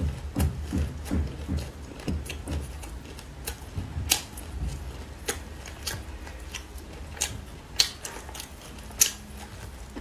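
Close-up chewing of crispy fried shredded-potato pancake, with irregular sharp crunches and crackles. Crisp pieces of the pancake are also pulled apart by hand.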